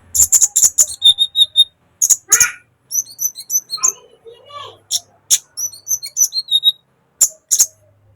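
Sunbird singing a fast, varied chatter: sharp high chirps and quick runs of short high notes, in phrases broken by brief pauses.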